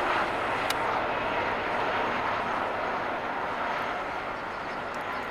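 Helicopter in flight: a steady rushing engine and rotor noise that slowly fades as it moves away.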